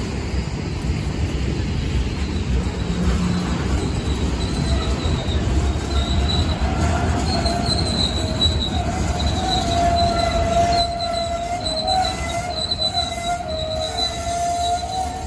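Train rolling by with a heavy low rumble and its wheels squealing on the rails. A high squeal comes in about six seconds in, and a lower one from about nine seconds; both waver.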